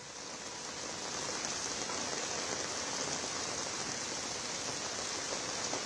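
Heavy rain falling steadily, a dense even hiss of downpour that swells in over the first second.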